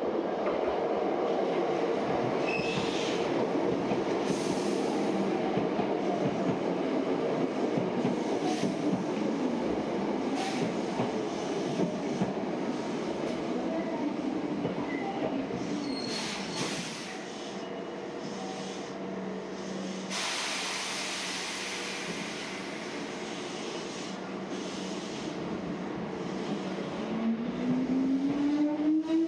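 Electric commuter train at a station platform: its motor whine falls slowly in pitch as it brakes, with a burst of air hiss about twenty seconds in. Near the end the whine climbs steeply as a train accelerates away.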